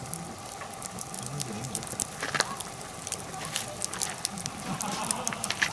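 Wood fire of hinoki and oak logs crackling, with frequent irregular sharp pops.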